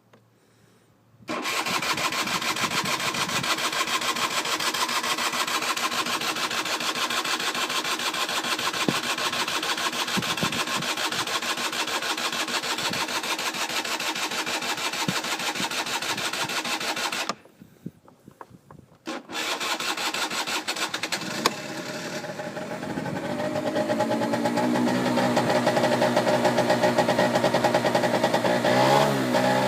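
1989 Peugeot SC50 scooter's 50cc two-stroke engine being cold-started: it turns over for about 16 seconds, stops, turns over again and catches about 21 seconds in. It then runs steadily, its pitch rising a little as it warms up.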